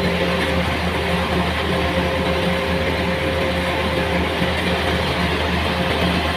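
A heavy engine running steadily at constant speed, a low, even hum with no change in pitch.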